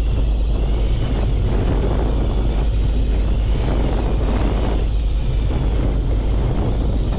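Steady low rumble of a fishing boat's engine mixed with wind on the microphone, with a faint wavering whine above it.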